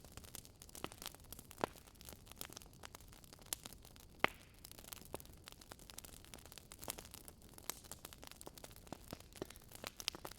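Wood fire in a fireplace crackling: a steady scatter of small, irregular pops and snaps, with two sharper pops about one and a half and four seconds in.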